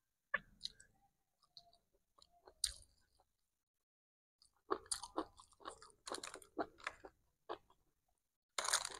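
Faint close-up chewing and crunching of a mouthful of nasi padang. A few single crunches come at first, then a busier run of them from about five seconds in and another short group near the end.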